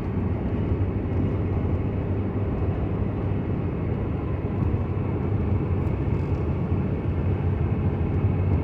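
Steady road noise inside a moving vehicle: a low drone from the engine and tyres on a wet road, unchanging throughout.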